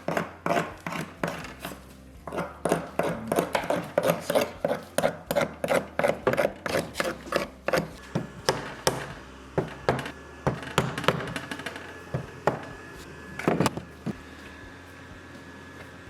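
Hand tool scraping little gouges into a knife handle in quick repeated strokes, about three a second, to key the surface for glue. After about eight seconds the strokes thin out to a few scattered knocks and stop near the end.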